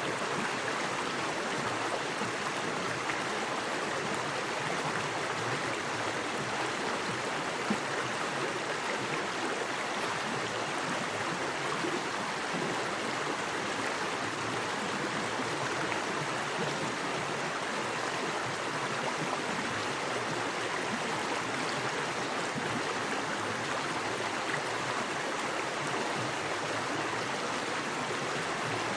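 A small woodland creek running fast over rocks: a steady rush of flowing water with a little splashing.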